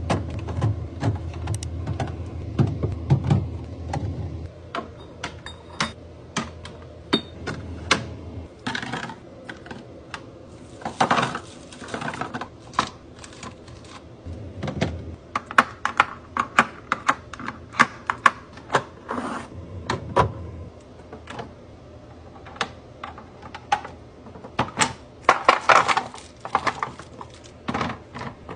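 Food containers, jars and packages being handled and set down in a fridge: an irregular run of sharp clicks and knocks, with a few short stretches of rustling or scraping.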